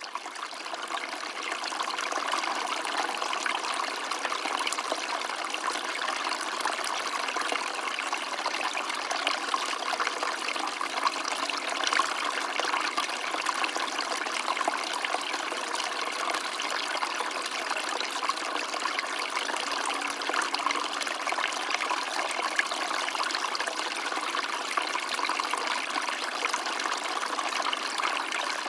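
A stream of water running steadily with a continuous trickling, splashing flow. It fades in at the start, then holds even throughout.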